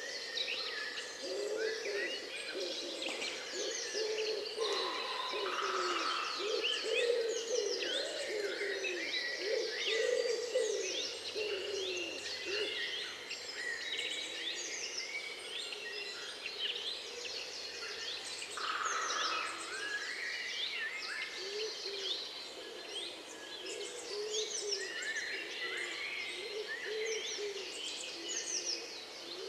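A dense chorus of many wild birds chirping and trilling. For most of the first two-thirds, a low, repeated hooting or cooing call runs underneath.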